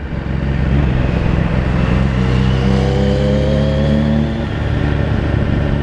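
Suzuki GSX-R1000 engine through a Yoshimura exhaust, heard from the bike, pulling up through the revs from about two seconds in, then easing off just after four seconds.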